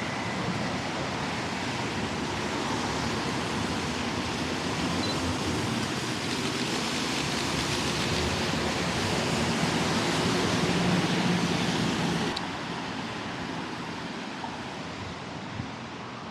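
Traffic hiss of tyres on a rain-wet road, with a low engine hum, swelling as a bus passes and then dropping off suddenly about twelve seconds in.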